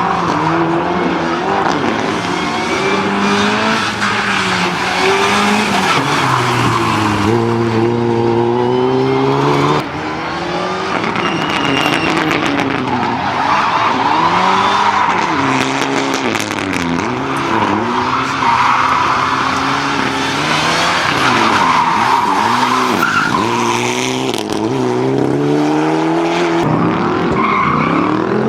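Car engine revving up and down over and over while the tyres squeal and skid: a car driven hard and sliding through corners.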